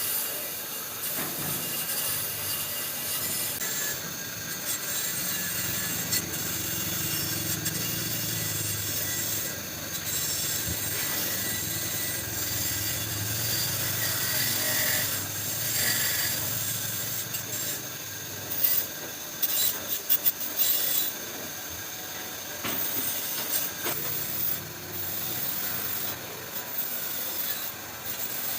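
Steady rubbing and scraping by hand, with a cluster of sharp knocks about two-thirds of the way through.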